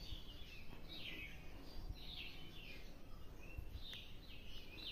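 Faint bird chirping: a short, falling chirp repeated roughly once or twice a second, with a few soft low knocks underneath.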